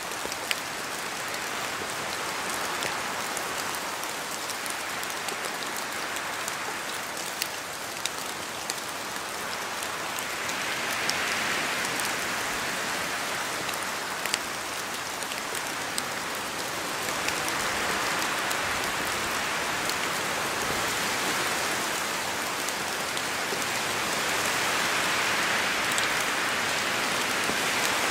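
Steady rain falling in a spruce forest, with scattered sharp ticks of nearby drops and wind through the trees. The hiss swells louder three times.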